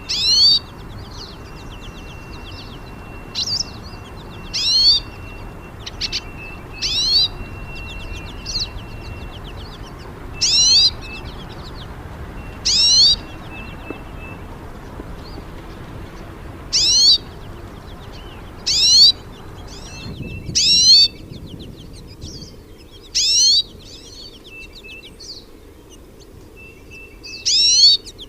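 A songbird singing short, high phrases that sweep downward, repeated roughly every two seconds. A faint, steady high thin tone runs under the first half.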